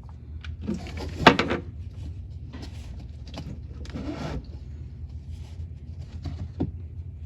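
Oil drain plug being worked out of a VW GTI's oil pan with a drain-plug removal tool: a few scrapes and knocks, with one sharp knock about a second in, over a steady low hum.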